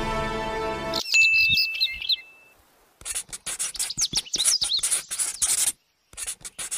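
Music cuts off about a second in, and birds chirp and whistle. From about halfway through, a pencil scratches on paper in quick strokes while the birds keep chirping.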